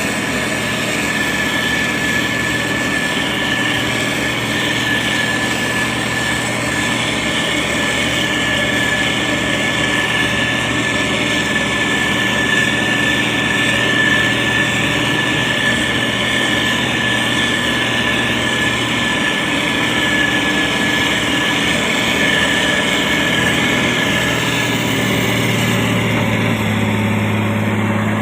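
Diesel engine of a SANY STG190C-8S motor grader running steadily under work, with a steady high whine over it. Near the end the whine fades and a lower hum comes up.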